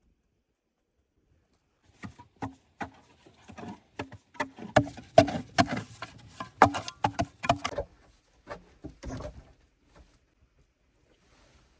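An irregular run of sharp knocks and clatters with some rustling, starting about two seconds in, thickest in the middle, with a few last knocks before it stops.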